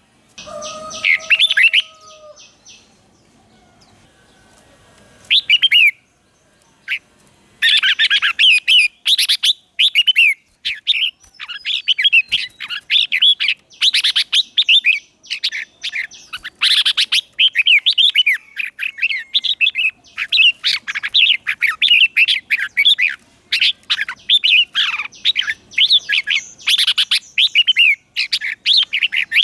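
Red-whiskered bulbul singing short, quick warbling phrases, sparse at first, then near-continuous from about a quarter of the way in. A brief steady tone sounds near the start.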